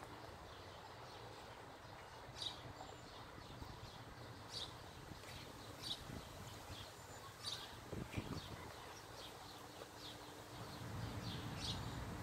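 Faint background with a few short, high bird chirps spread through it, and one soft low thump about eight seconds in.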